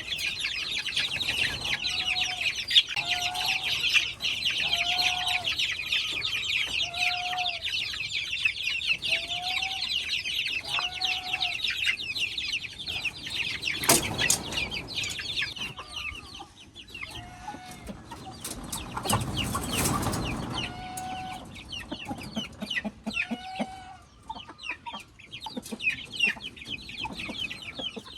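Chickens clucking in short, repeated calls about once a second, over a dense high-pitched chirping that fades out about halfway through. A single sharp click comes at about fourteen seconds in, and a louder rustling noise a few seconds later.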